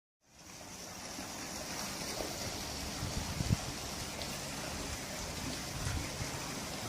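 Steady outdoor background hiss with a brighter high-pitched band, fading in at the start, with a few faint knocks.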